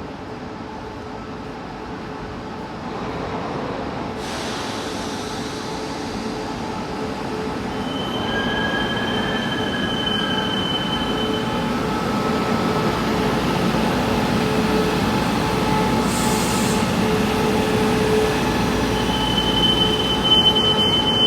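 Taiwan Railways Tze-Chiang express train pulling into a station, its running noise growing steadily louder as it comes alongside. A high, thin squeal from the running gear sounds about eight seconds in and again near the end as the train brakes.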